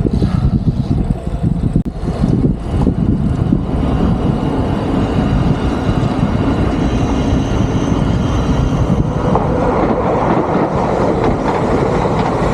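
Steady rumbling noise of riding a Brompton folding bike: wind on the microphone and tyres rolling on the road surface, growing a little brighter and louder near the end.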